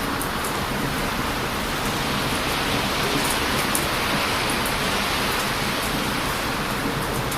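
Heavy surf breaking on a beach: a steady, loud roar of waves that swells slightly midway, with a few faint sharp pops from a wood bonfire crackling.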